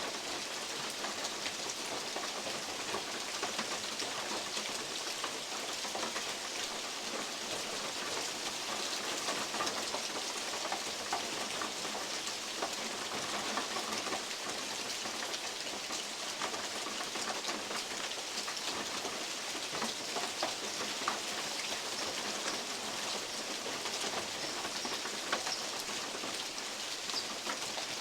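Steady rain, with many big drops falling from the oak leaves and pattering irregularly on a metal roof.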